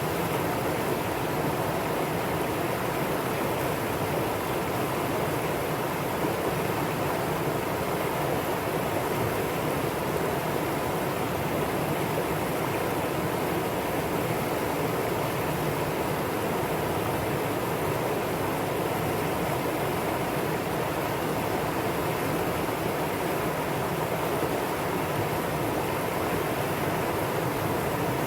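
Mountain stream water rushing and splashing over rocks: a steady, dense rush with no breaks.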